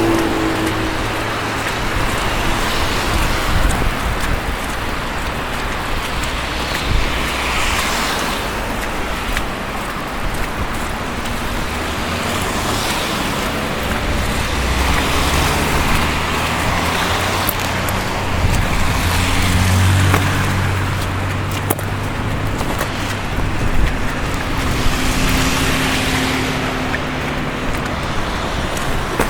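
Street traffic: cars passing one after another, each one swelling and fading as a hiss of tyres, with a vehicle's low engine hum heard through the middle.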